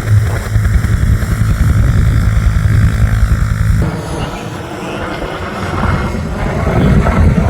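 AH-1F Cobra attack helicopter running, a heavy low rotor and turbine sound. About four seconds in it changes abruptly: the low rumble drops away and a thinner, noisier rush takes over.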